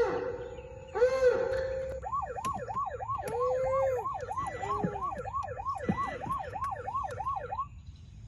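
Electronic toy fire-truck siren: a fast wail sweeping up and down about three times a second, with a few longer, lower tones, stopping about a second before the end.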